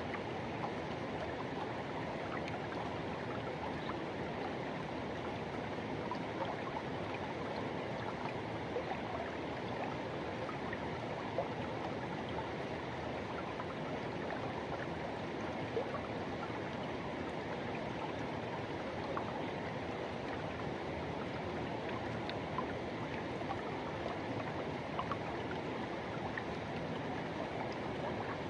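Forest river rushing and flowing steadily, a constant wash of water with small splashes and gurgles.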